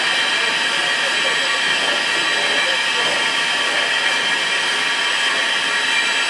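Steady hiss of steam in the cab of Southern Railway 630, a 2-8-0 steam locomotive, holding an even level throughout.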